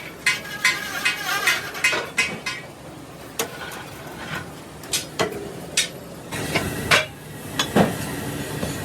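Metal hammer blows on steel plate, each with a short ring. About two or three strikes a second at first, then slower, scattered blows.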